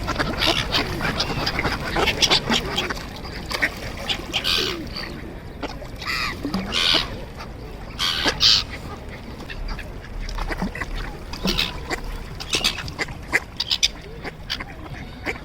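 Ducks quacking, many short calls one after another with a few louder bursts.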